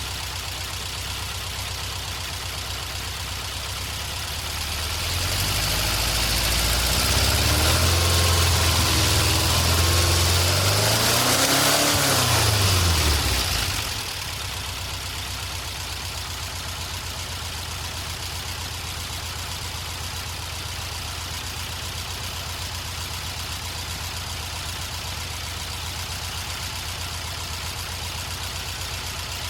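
Air-cooled 2.0-litre VW Type 4 flat-four with dual Weber 40 IDF carburettors idling, then brought up to a faster speed about five seconds in, revved once more and let fall back to a steady idle about fourteen seconds in.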